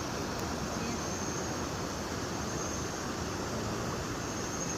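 Steady, even rushing background noise with no distinct events, and a faint high thin tone running through it.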